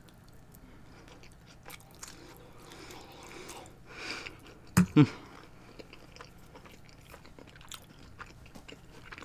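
Close-miked chewing of a mouthful of baked macaroni and cheese: wet mouth clicks and soft smacking. Two short, louder low sounds from the mouth come about five seconds in.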